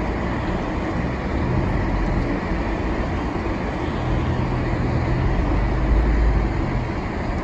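Vehicle driving on a snow-covered road, heard from inside: a steady engine drone and tyre rumble. A deeper engine hum comes up about four seconds in and is strongest about six seconds in.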